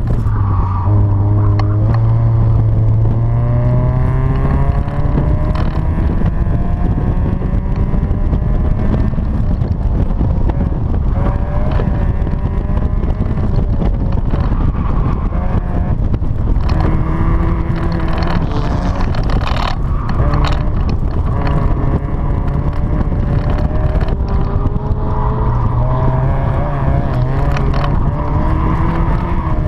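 1992 Mazda Miata's 1.6-litre four-cylinder engine working hard through an autocross run. Its pitch climbs steeply in several pulls and drops off between them as the driver accelerates, lifts and brakes. Wind rushes past the open cockpit.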